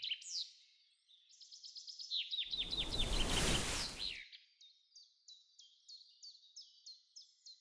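Birds chirping in a series of short, quick, falling high notes, a few per second. About two and a half seconds in, a burst of rushing noise rises over them for nearly two seconds and then fades, and the chirping carries on alone.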